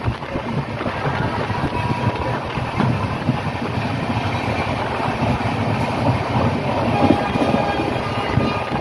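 Passenger train running along the track, heard from inside the coach: a steady rumble and rattle of the wheels and carriage.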